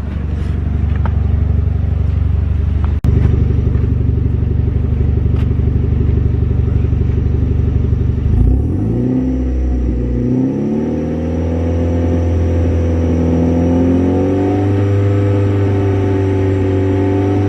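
Freshly rebuilt 2.0-litre turbocharged Theta four-cylinder of a Hyundai Genesis Coupe running at raised revs during engine break-in. About eight seconds in the revs dip briefly, then climb and hold higher, stepping up again near the end.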